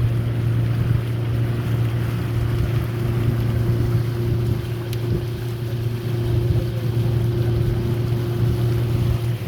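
Tour boat's motor running steadily with a constant low hum as the boat moves through the mangrove swamp.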